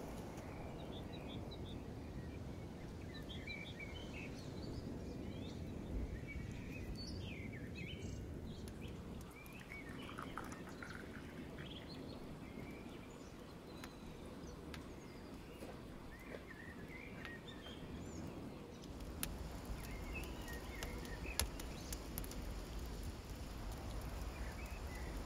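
Small birds chirping and twittering on and off over a steady outdoor background hum. A few light clicks come near the end.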